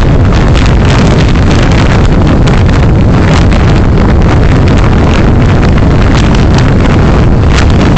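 Loud, steady wind and road noise on a dashcam microphone from a moving vehicle, with constant rumble and gusty flutter.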